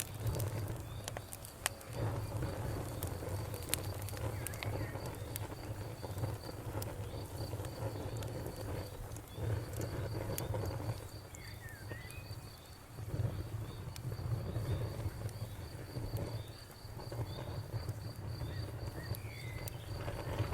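Campfire crackling with scattered sharp pops over a low steady rumble, while an insect keeps up a fast, even high chirping and a bird gives a few short chirps.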